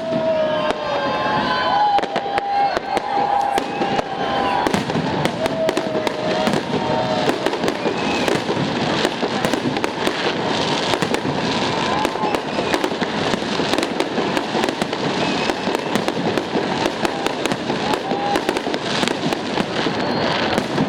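A fireworks salute: a dense, continuous run of bangs from bursting shells over steady crackling, with wavering high tones in the first few seconds.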